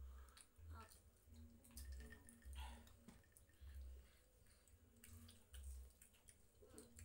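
Near silence with faint eating sounds: mouth clicks and wet smacks of children chewing grilled sausage, with soft low thumps every half second or so.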